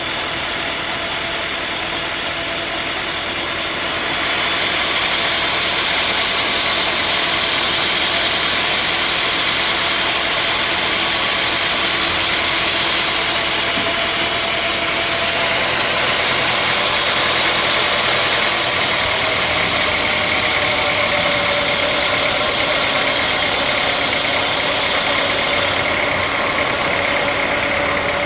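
Sawmill saw running steadily on mahogany timber. About four seconds in the sound grows louder and brighter as the blade works through the wood, and it eases near the end.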